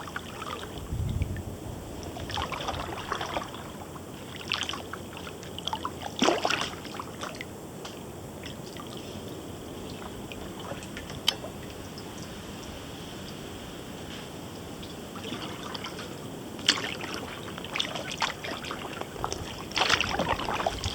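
Kayak paddle strokes: irregular splashes and trickles as the blades dip and water runs off them, over a steady low hiss.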